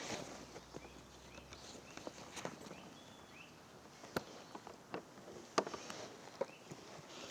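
Scattered light clicks, knocks and rustles of field-recording gear and cables being handled, with a few faint bird chirps two to three seconds in.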